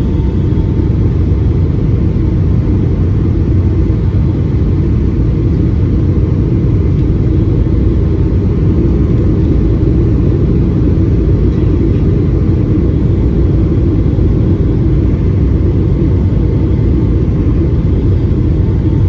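Steady, loud cabin drone of a Boeing 757-200 in flight, the jet engines and rushing airflow heard from a window seat inside the cabin, deep and unchanging.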